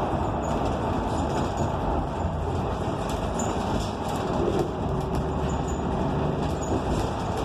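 Steady rumbling noise of a moving vehicle, with faint scattered clicks.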